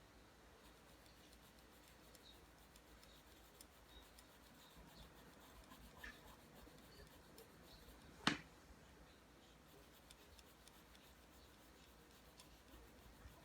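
Faint pencil strokes scratching on paper as lines are drawn, with a single sharp click about eight seconds in.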